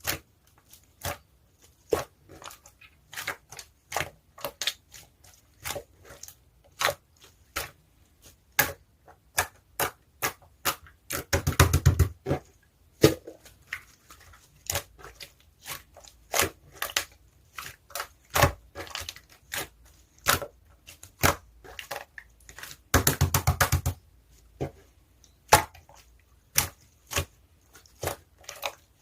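Blue slime topped with small round add-ins being pressed and worked by hand: irregular sticky clicks and pops, with two longer bursts of dense crackling, about eleven seconds in and again about twenty-three seconds in.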